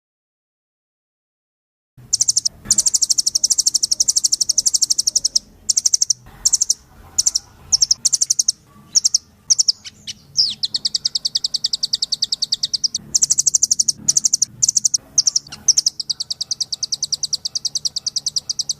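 A rambatan loreng (a nuthatch kept as a songbird) singing high, rapid trills of fast-repeated notes in long runs broken by short pauses. The song starts about two seconds in, after a short gap of silence.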